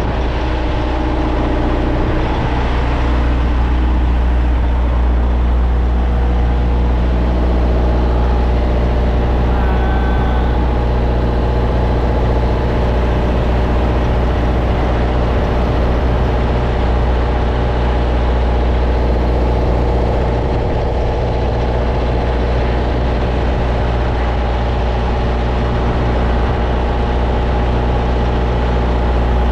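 Heavy diesel truck engine idling steadily, a deep, even running note with no change in speed.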